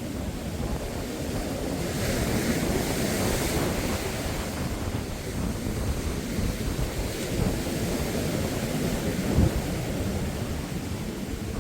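Surf breaking on a sandy beach, with a surge of hissing wash about two to four seconds in. Wind buffets the microphone throughout, with a brief low bump near the end.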